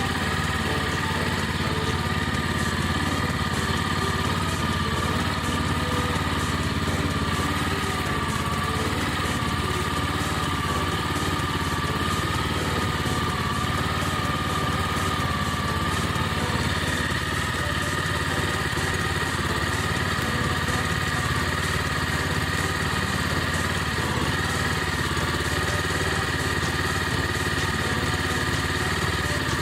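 Small GH100 engine salvaged from a walk-behind rice transplanter running steadily, driving a homemade can-crushing machine.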